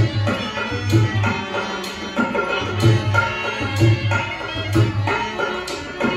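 Rajasthani folk music: a hand drum plays a steady rhythm, with deep bass strokes about once a second, over sustained melody instruments.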